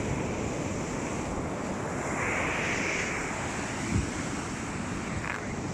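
Sea waves washing on the beach, with wind buffeting the microphone; the surf hiss swells about two seconds in, and a brief low thump of wind on the microphone comes about four seconds in.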